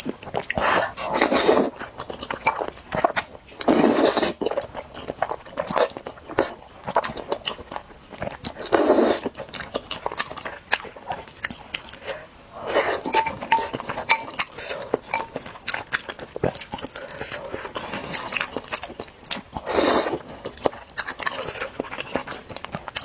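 Close-miked eating: spicy noodles slurped in several loud pulls of about a second each, with wet chewing and small mouth clicks between them.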